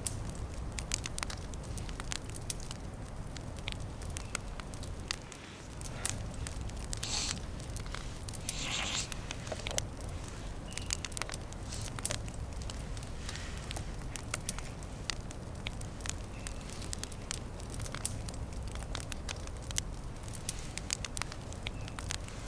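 Small campfire crackling, with frequent sharp pops scattered irregularly over a steady low rumble. Two brief rustling hisses stand out around seven and nine seconds in.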